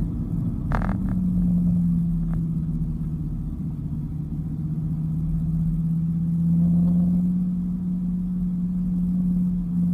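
Dodge Viper GTS V10 engine running at a steady cruise, its drone holding an even pitch, with a short sharp click about a second in.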